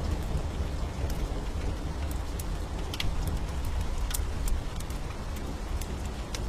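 Fireplace wood fire crackling, with scattered sharp pops, over steady rain and a low, continuous rumble.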